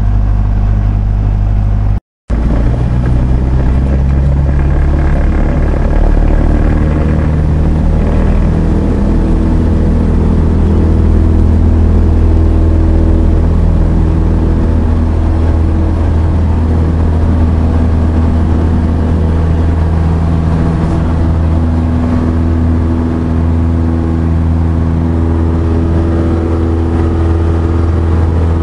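Cessna 172SP's four-cylinder Lycoming engine and propeller running steadily, heard as a loud, even drone from inside the cabin. The sound cuts out for a split second about two seconds in.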